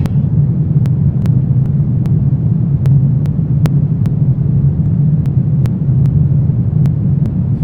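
Steady low rumble of a dark ambience bed, with faint scattered clicks over it.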